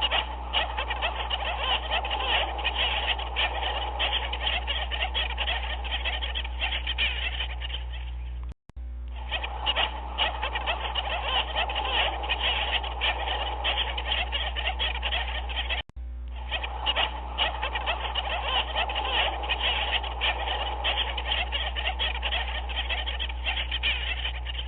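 Dense chorus of many animals calling at once: countless short calls overlapping into a steady din. It drops out for a split second twice, where the looped stock recording restarts.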